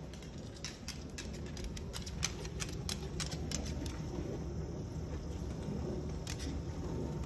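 Irregular light clicks and taps, most in the first half, from a Moluccan cockatoo handling its plastic toys with beak and feet, over a steady low hum.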